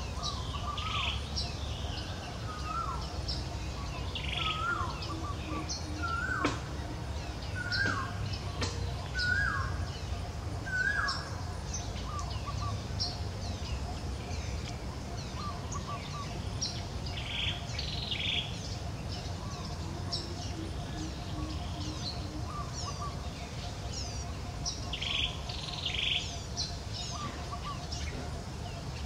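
Birds chirping and calling repeatedly, with a run of short hooked calls in quick succession from about four to eleven seconds in, and a steady low background noise underneath.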